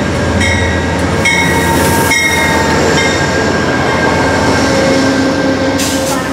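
Train rolling past at close range, its wheels clicking over rail joints at even intervals in the first second or two, over a loud steady rumble with a high, steady ring.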